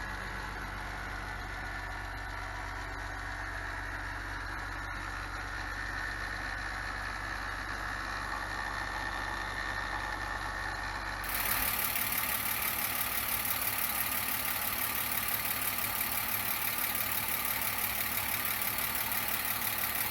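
BMW 330i's M54 inline-six idling with a rattle from the valve train, a sign of oil starvation: debris from a broken timing chain guide had clogged the oil pump pickup. The sound grows louder about halfway through.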